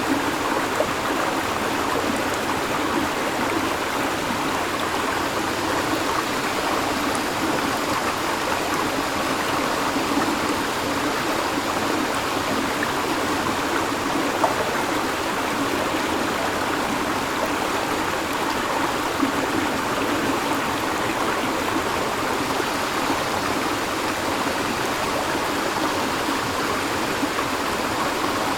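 River water flowing over stones: a steady, even rush with no breaks.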